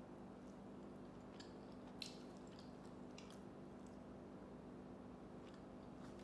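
Near silence: faint chewing and a few small wet mouth clicks from someone eating, one a little louder about two seconds in, over a low steady hum.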